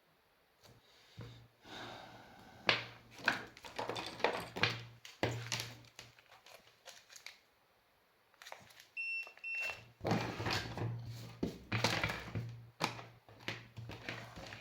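Knocks, clicks and rustling of an electric scooter's lithium-ion battery pack being handled and opened on the bench, with two short electronic beeps about nine seconds in.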